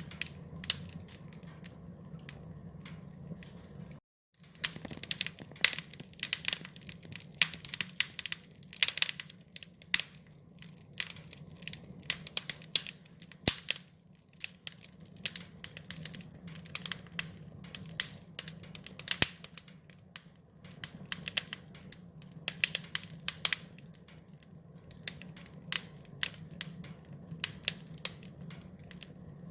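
Wood fire crackling: dense, irregular sharp pops and snaps over a low, steady rumble of the burning fire. The sound cuts out completely for a split second about four seconds in.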